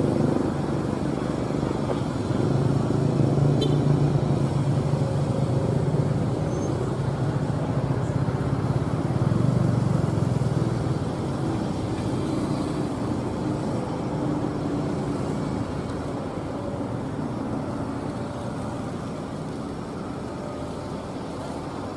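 Heavy diesel machinery engine running steadily, swelling a couple of seconds in and growing fainter over the second half.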